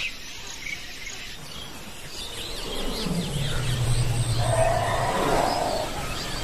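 Wild birds chirping over a steady insect chorus, with a deep, drawn-out sound about three seconds in that lasts roughly two seconds and is the loudest thing heard.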